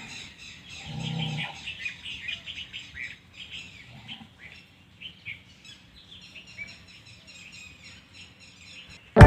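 Many small birds chirping in quick, overlapping high calls. A short low sound comes about a second in.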